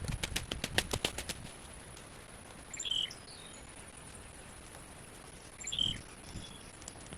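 A quick run of about ten sharp clicks in the first second and a half, then a bird calling twice, short high chirps about three seconds apart, over a steady high whine.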